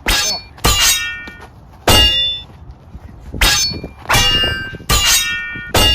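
Metal clashing in a fight: seven sharp, ringing clangs at uneven intervals.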